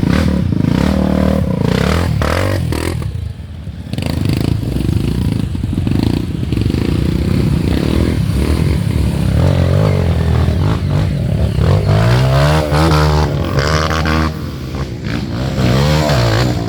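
Off-road trail motorcycle engines revving hard, their pitch rising and falling again and again as the bikes work through mud, with at times more than one engine heard at once.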